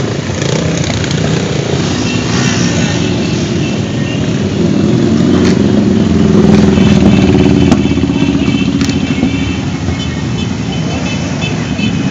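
A stream of motorcycles riding past in procession, their engines running together in a dense, continuous drone that grows louder to a peak about seven seconds in and then eases off.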